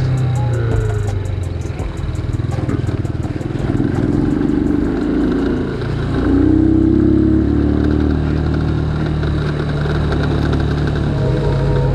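Motorcycle engine running under way, its pitch rising and falling with changes of throttle.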